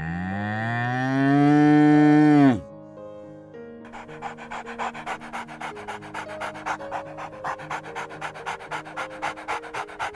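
A cow moos, one long call that rises and then drops away sharply about two and a half seconds in. After a short pause, an animal pants quickly, about four breaths a second, until the end, over soft background music.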